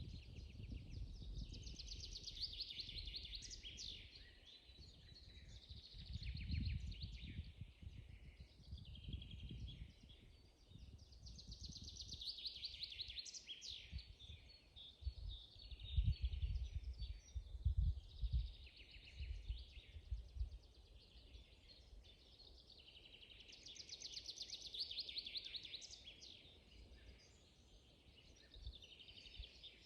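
Several songbirds singing in a spring forest, with trilled and chirping phrases coming back every few seconds. Low rumbles come and go underneath, strongest a little past the middle.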